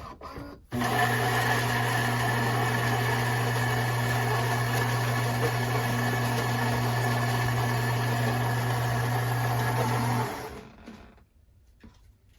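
Philips Series 3300 espresso machine's ceramic grinder running steadily as it grinds beans at the start of an espresso cycle, starting about a second in and stopping about ten seconds in.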